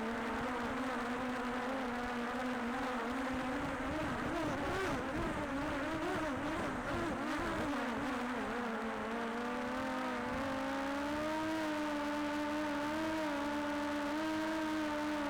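Multirotor camera drone's propellers whining. The pitch wobbles up and down for a few seconds as the drone manoeuvres, then settles into a steady hum that slowly rises.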